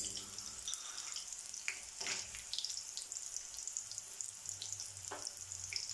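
Raw peanuts and garlic cloves frying in hot oil in a metal kadai: a steady sizzle with scattered crackles as the peanuts go into the oil.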